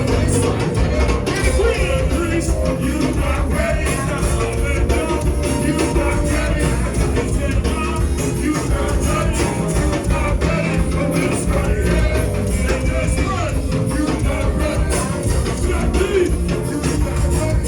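Live go-go band playing loud, with heavy bass and drums and a singer's voice over the groove.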